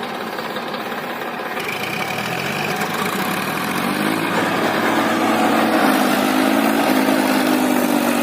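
Tractor diesel engine revving up: its pitch climbs over a couple of seconds, then holds high and steady.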